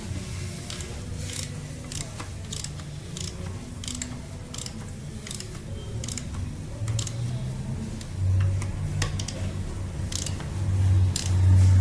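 Irregular sharp metallic clicks and taps of hand tools and small metal parts being handled during repair work on a pressure-washer pump, over a low hum that swells about eight seconds in and again near the end.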